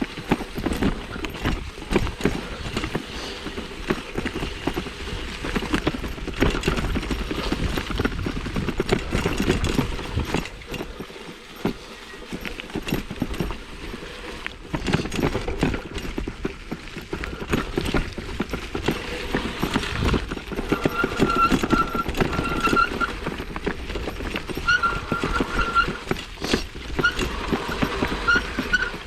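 1987 Specialized Stumpjumper mountain bike clattering and rattling over a rough dirt trail: a dense, uneven run of knocks and jolts. Brief high squeaks come in repeatedly in the last third.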